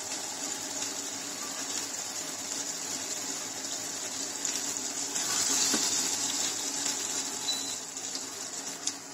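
Spice paste sizzling and bubbling in oil with a little water in a frying pan as it is cooked down, stirred with a spatula that scrapes now and then. The sizzle is a steady hiss that grows a little louder about halfway through.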